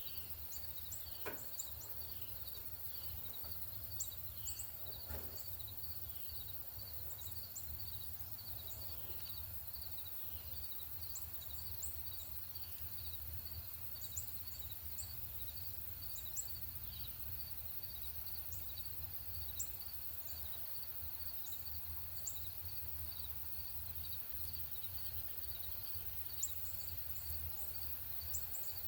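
Outdoor bird-feeder ambience: small birds give short, high chirps and chip notes scattered throughout, over a steady, fast-pulsing insect trill and a low rumble.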